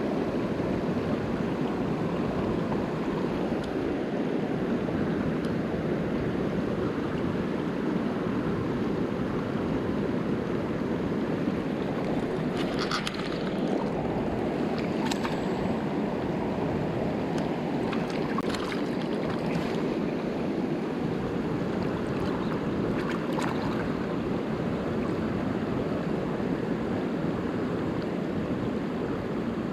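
Mountain stream rushing steadily, with a few brief higher-pitched sounds about halfway through and again a little later.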